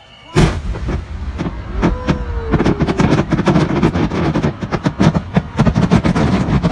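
Fireworks going off in rapid succession: one loud bang about half a second in, then a dense, continuous run of bangs and crackles.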